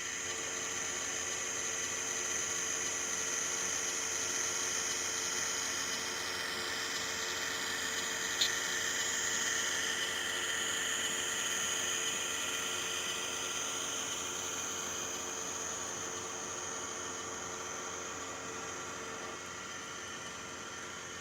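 N scale Model Power FP7 locomotive's electric motor whirring steadily as it hauls a long train of 41 cars and a caboose, with a hiss of wheels on track. One short click about eight seconds in, and the whir eases off slightly near the end.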